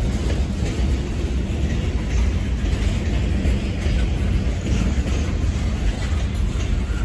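Freight train cars, a centre-beam flatcar and then tank cars, rolling past close by. Their steel wheels make a steady low rumble on the rails, with faint clicks over it.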